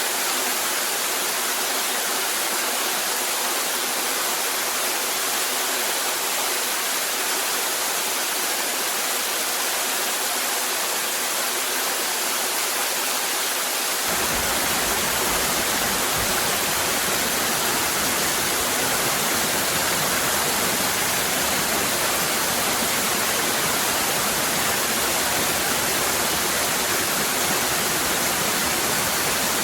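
Cascading waterfall: a steady, even rush of falling water. About halfway through, a deeper low rumble joins the rush and it gets slightly louder.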